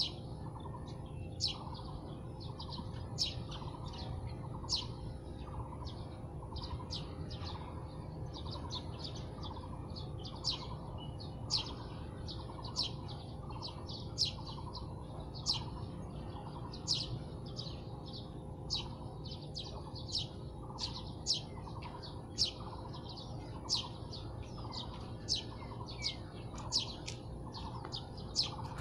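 Small birds chirping: a steady stream of short, sharp, high chirps, one or two a second, over a thin steady high insect-like buzz and a low steady background rumble.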